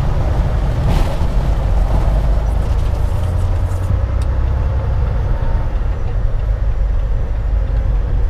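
Steady low rumble inside a moving semi-truck's cab: engine and road noise.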